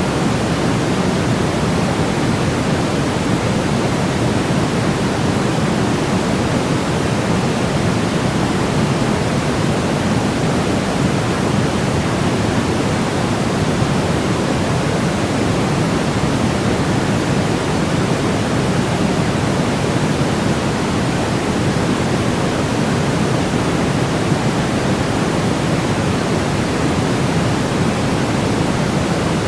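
Continuous electronically generated white noise for baby sleep: a steady, unchanging rush, fuller in the low and middle range than in the highs.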